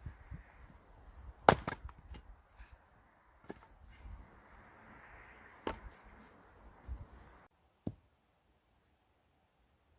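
Axe splitting firewood: sharp chopping strikes a couple of seconds apart, the loudest about a second and a half in, with wood cracking. The background drops away abruptly past the middle, leaving one last strike and then quiet.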